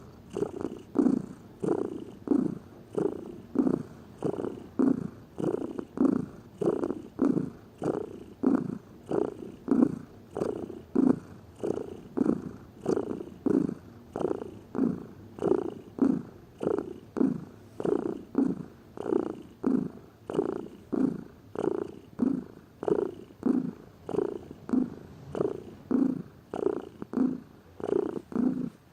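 Domestic cat purring steadily and close up, the purr swelling and fading in an even rhythm with each breath.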